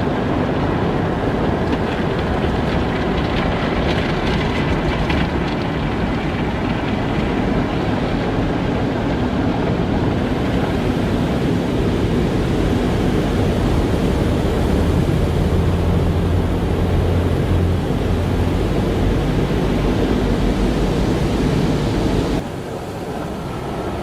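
Car wash machinery running: a steady rumble with a hiss. The level drops abruptly near the end.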